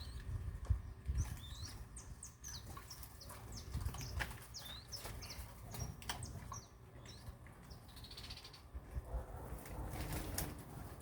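Small birds chirping, many short high notes and quick pitch sweeps scattered irregularly, over a low rumble.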